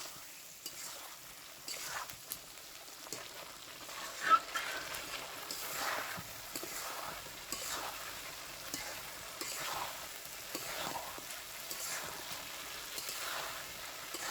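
Chicken pieces frying in a pan with spices and yogurt, sizzling steadily while being stirred, with a scraping sweep every second or two. A sharp clink of a utensil against the pan about four seconds in.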